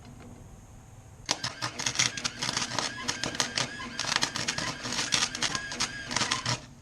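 Harbor Freight electric welder's arc crackling and spitting while tack-welding a steel bracket onto a tow bar. It starts just over a second in, runs for about five seconds and stops near the end.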